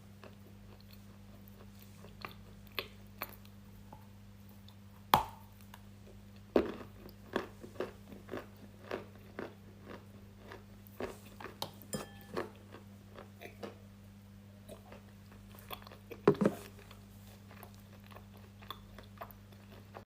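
A person biting into and chewing something hard and crunchy close to the microphone. There are sharp loud bites about five seconds in, again about a second and a half later, and near the end, with a run of smaller crunches between them. A steady low hum runs underneath.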